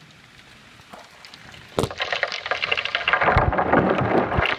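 Heavy rain rushing down, coming in loud and sudden about two seconds in and cutting off just before the end, with wind gusts buffeting the microphone.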